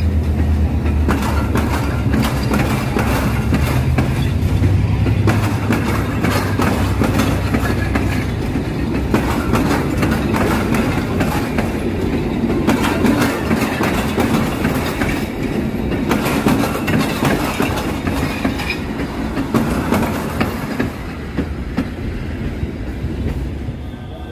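Abu Qir passenger train rolling past on the rails, its coach wheels clacking rapidly over the track. A deep rumble is strongest in the first several seconds, then fades, and the sound eases off near the end.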